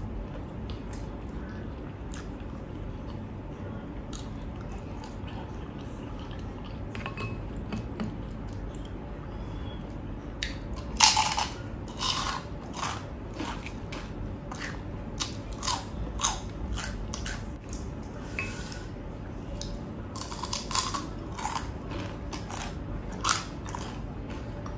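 A person biting and chewing crunchy food. The chewing is quiet at first, then comes as sharp crunches in two runs from about the middle on.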